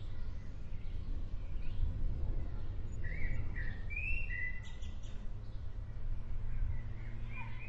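Birds chirping over the low, steady rumble of an approaching thunderstorm, with a cluster of short chirps about three to four and a half seconds in and a few more near the end.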